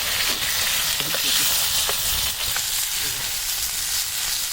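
Minced-meat patties frying in desi ghee in a frying pan: a steady sizzle, with a few faint clicks.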